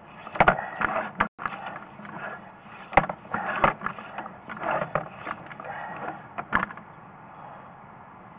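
Irregular clicks, knocks and scrapes as a sewer inspection camera's push cable is fed by hand into a 3-inch cleanout line. They stop about two-thirds of the way through, leaving a faint steady hum.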